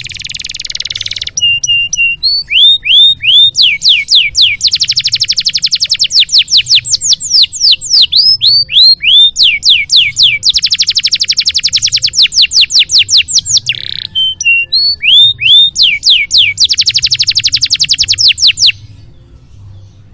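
Canary singing a long, loud song. It opens with a harsh buzzy note and runs on in fast rolls of repeated down-sweeping chirps and rattling trills, then stops abruptly shortly before the end. A faint low hum lies underneath.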